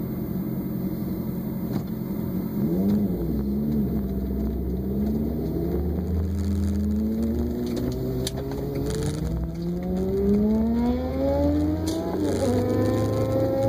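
Vehicle engine accelerating over a steady road rumble: its pitch climbs steadily for several seconds, then drops suddenly near the end, as at a gear change, and settles.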